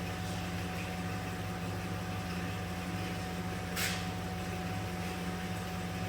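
2010 Dodge Grand Caravan's 3.3 V6 idling, a steady low hum with a slight regular pulse and a faint steady whine over it, and a short scuffing noise about four seconds in.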